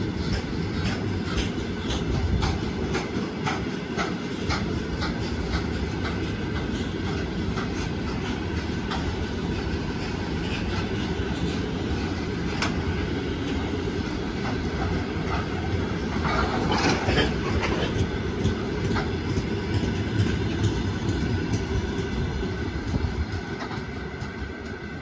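A long freight train of covered hopper wagons rolling past: a steady wheel rumble with rapid clickety-clack as the wheels cross rail joints. About two-thirds of the way through there is a brief, louder, harsher stretch. The sound fades near the end as the last open wagons pass and recede.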